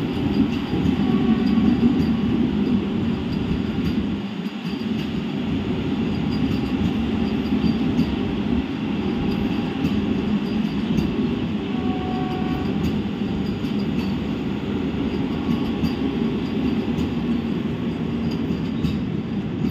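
Vande Bharat Express electric multiple-unit train leaving the station, its coaches rolling past with a steady rumble of wheels on the rails.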